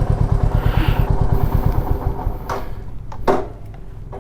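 Royal Enfield Meteor 350's single-cylinder engine idling with an even thumping beat, then switched off about two seconds in, followed by a click and a sharper knock.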